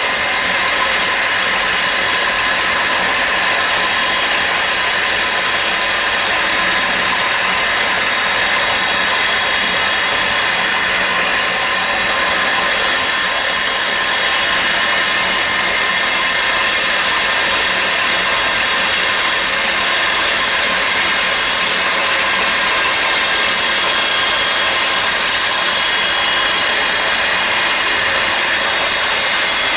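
K-45MT CNC turning centre milling with a driven tool on its power turret: a steady machining noise with a constant high whine.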